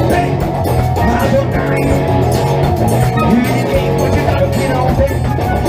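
Live rock band playing an instrumental passage: electric guitar, bass, drums and keyboard together at full volume.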